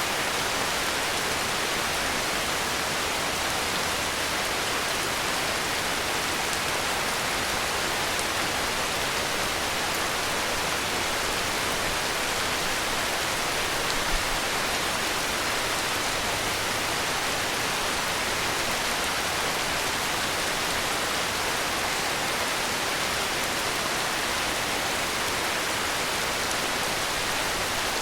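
Heavy rain falling in a steady, even hiss, with one brief click about halfway through.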